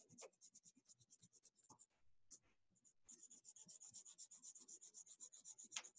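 Faint scratching of a wax crayon coloring back and forth on paper: scattered strokes at first, then from about halfway a quick, even scribble of roughly six strokes a second.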